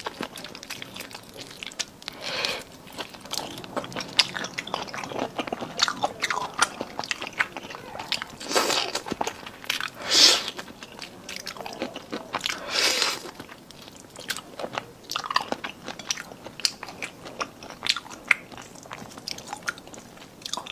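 Close-miked chewing and biting of cold marinated seafood: wet crunching and smacking with many small clicks. Several louder bursts stand out, the loudest about ten seconds in.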